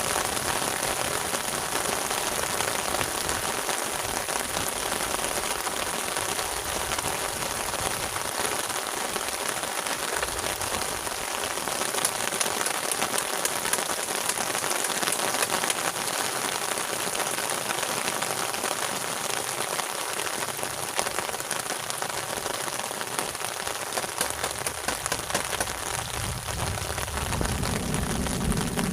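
Heavy rain falling steadily, a dense even hiss of drops. A low rumble comes in near the end.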